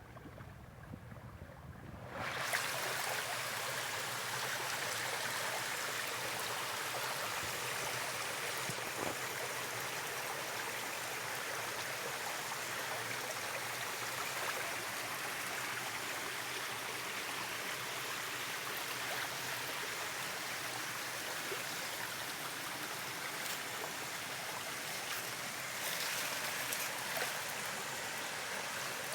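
Steady rushing of flowing stream water, cutting in suddenly about two seconds in after a quieter low rumble.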